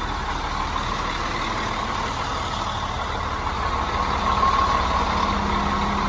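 Steady low rumble of idling truck engines, with a low hum that grows stronger about two-thirds of the way in.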